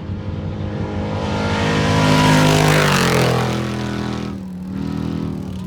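Off-road trophy truck racing past at speed. Its engine note builds to a loud peak about two seconds in, with a rush of wide noise, then drops in pitch as it goes by. The engine note rises again near the end as the truck revs away.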